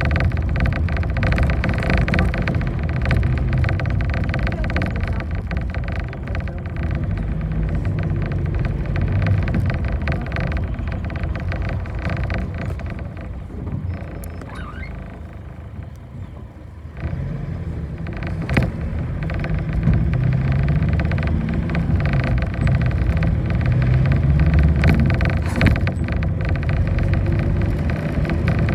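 Bus engine and road noise heard from inside the moving bus. The noise eases off for a few seconds past the middle, then builds again with the engine working harder.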